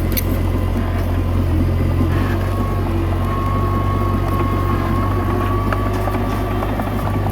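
Komatsu D21A bulldozer's diesel engine running steadily under load, with a thin steady whine above the engine.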